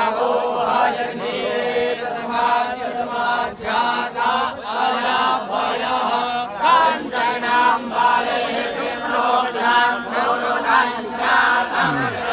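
A group of young Vedic students chanting Sanskrit mantras together in a steady rhythmic recitation, continuous throughout.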